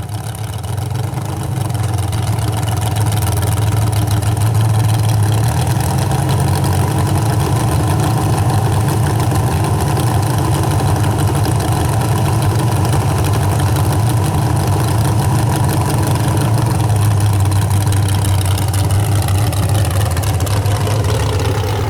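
Super Stock 4x4 pulling truck's engine running loud and steady, its pitch falling over the last few seconds.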